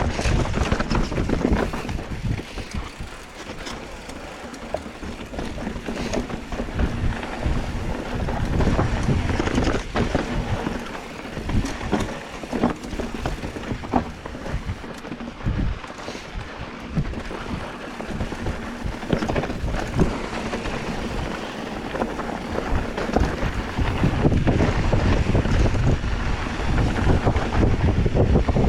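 Wind buffeting the microphone, with a rumble that swells and fades, stronger again near the end, and scattered short clicks and knocks throughout.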